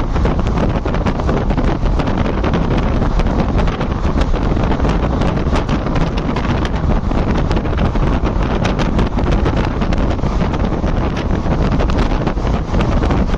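A passenger train's ICF coach running at speed, heard from its open doorway: the steady rush of wind on the microphone over the running noise of the train, with frequent short clicks and knocks.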